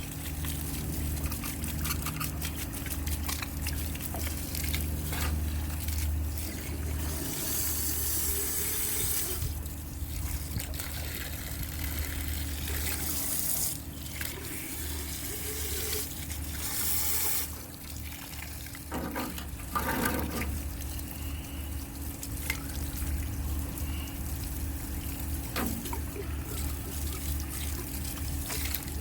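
Water running and trickling at a sink, with a few short, louder rushes of water.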